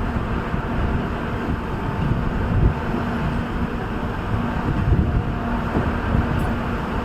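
Steady rumble of a moving train, with wind buffeting the microphone in gusts.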